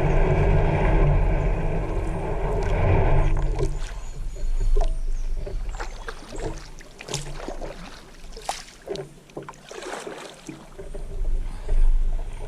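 A loud steady rumble for about the first three seconds, then water splashing with irregular hollow knocks against a kayak's hull as a person climbs about on it.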